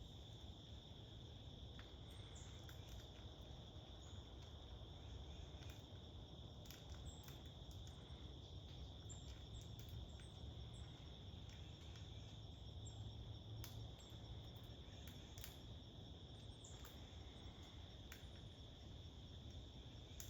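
Faint, steady insect trill, typical of crickets, held on one high pitch, with scattered light ticks and a low rumble.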